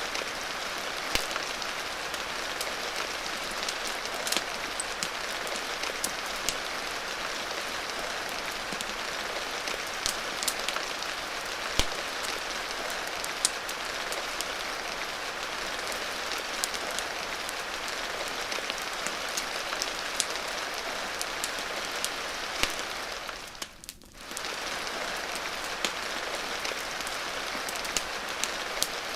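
Steady rain hiss with scattered sharp clicks and pops. The sound briefly dips and almost drops out for about a second a little past the three-quarter mark.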